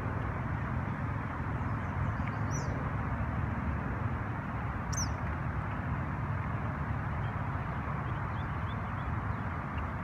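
Two short, high, falling bird chirps, about two and a half and five seconds in, with a few fainter chirps near the end, over a steady low rushing noise.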